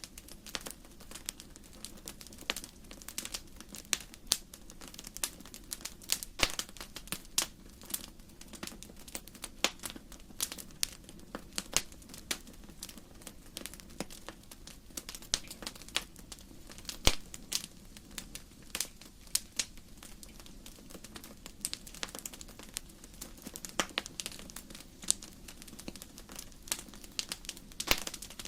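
Burning firewood crackling in a fireplace: a steady stream of irregular sharp pops and snaps over a soft low rush of flame.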